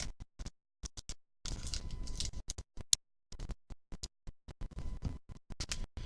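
Choppy, broken-up audio that keeps cutting out: short fragments of scratchy handling and rustling noise separated by dead silent gaps, with a sharp click about three seconds in. It is a badly dropping-out stream recording.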